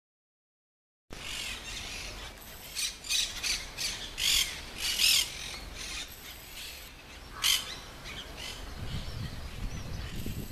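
Birds in the palm trees calling loudly: a quick series of harsh calls a couple of seconds in, then one more a little later, over outdoor background noise. A low rumble rises near the end.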